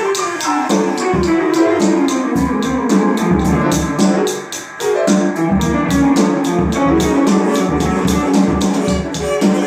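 Instrumental music with guitar over a steady drum beat, with no vocals. The drums drop out briefly about halfway through.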